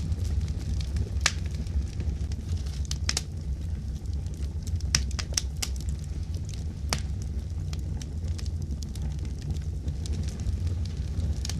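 Fireplace fire crackling: irregular sharp pops, several close together in the middle, over a steady low rumble.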